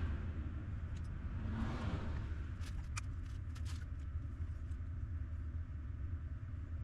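Steady low vehicle rumble, with a whooshing swell of noise up to about two seconds in and a few light clicks a little later.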